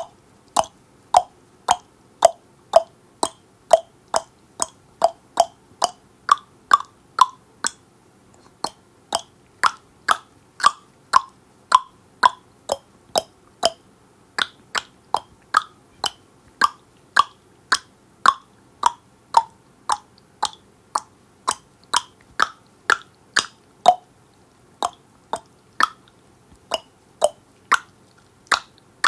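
Tongue clicks against the roof of the mouth, about two a second in a steady run with a couple of short pauses. Each click is a hollow pop whose pitch shifts up and down from click to click as the mouth changes shape.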